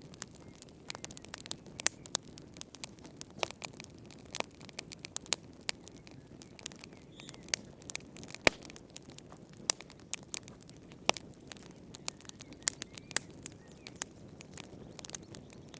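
Wood fire burning in a fireplace, crackling with irregular sharp pops and snaps over a low steady hiss; one louder pop about halfway through.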